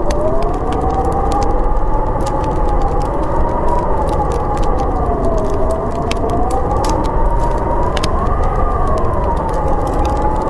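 Snowstorm wind howling: a steady rush with a whistling howl that slowly rises and falls in pitch. Over it come scattered sharp crackles from a wood fire.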